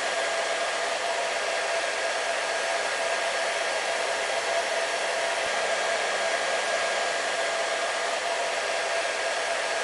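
Hair dryer running steadily: a constant rushing blow with a steady motor hum, unchanging in level.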